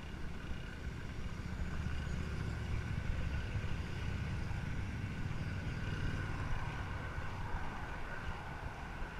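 Steady wind and road noise from riding a bicycle: a low rumble that builds about a second in and eases near the end.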